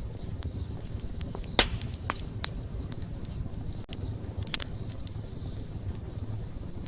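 Wood fire crackling: a steady low rumble of burning with scattered sharp pops, the loudest about one and a half seconds in and a few smaller ones after.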